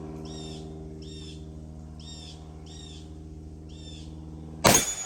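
Short bird chirps repeating about once a second over a steady low hum, then near the end a single loud Desert Eagle .50AE pistol shot. After the shot the slide returns into battery.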